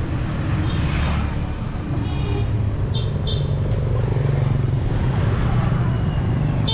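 Street traffic heard from a bicycle: a steady rumble of passing motor vehicle engines and tyres, with a couple of short high-pitched beeps about three seconds in.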